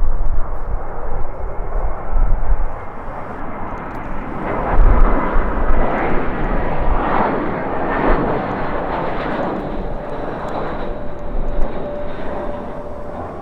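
Jet airliner passing, its engine noise swelling about four seconds in, peaking mid-way and easing off, with a steady whine near the end. Gusting wind buffets the microphone with low rumbles throughout.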